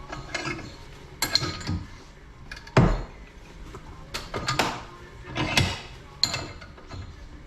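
Hand tools and metal parts knocking and clanking during motorcycle swingarm linkage disassembly, a handful of separate knocks with the loudest about three seconds in.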